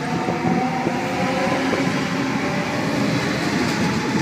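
Sydney Trains Waratah (A set) double-deck electric train pulling out of the platform: steady rail and wheel noise with a faint even motor whine.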